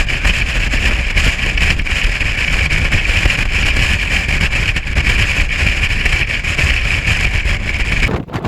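Strong wind buffeting the microphone: a loud, steady rumble with a hiss on top, which cuts off abruptly near the end.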